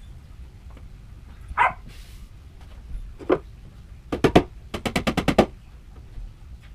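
A few single sharp knocks, then two quick rattling runs of sharp clicks, the second of about eight at roughly a dozen a second, near the end.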